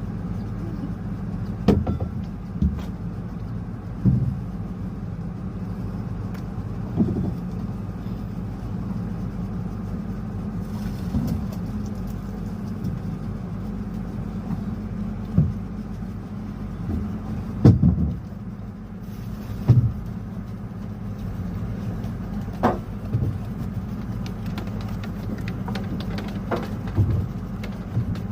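A motor engine running steadily at a low hum, with scattered knocks and thumps over it.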